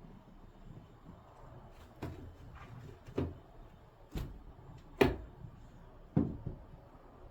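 Thumps and knocks of a car door as the driver gets into the car: five or so, the loudest about five seconds in.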